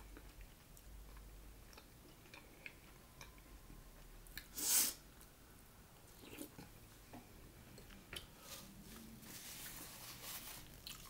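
Close-miked chewing and soft mouth sounds of someone eating taco soup from a spoon, with faint scattered clicks and one short, louder noise a little before halfway.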